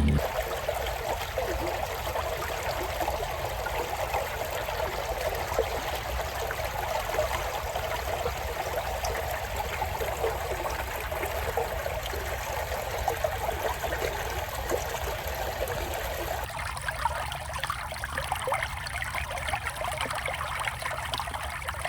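Creek water flowing and trickling steadily over a shallow channel. About three-quarters of the way through, the sound shifts to a thinner, higher trickle.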